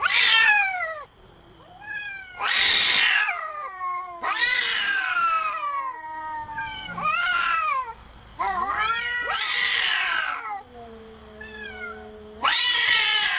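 A cat meowing over and over: about seven long, drawn-out meows, most of them falling in pitch, with short pauses between.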